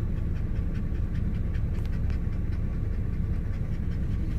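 A dog panting in quick, even breaths over the low, steady rumble of a car's road noise.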